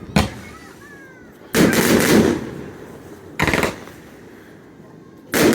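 Fireworks going off: a sharp bang, then two bursts of rapid crackling, and another loud burst near the end.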